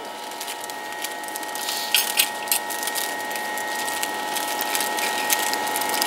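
Close chewing and crunching of a bite of thin-crust cheese pizza, with scattered crackles, the sharpest about two seconds in. A steady high hum runs underneath.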